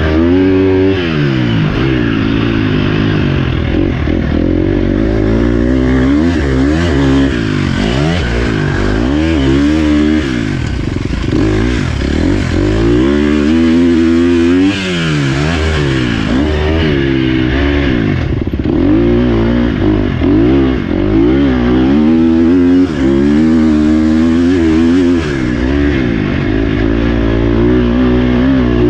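Dirt bike engine being ridden, its pitch rising and falling again and again as the rider works the throttle and gears.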